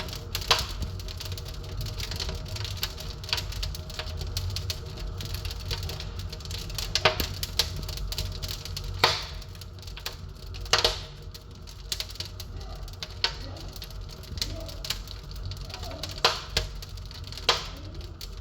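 Fire burning in an open fireplace, crackling steadily with a low rumble, and several louder pops.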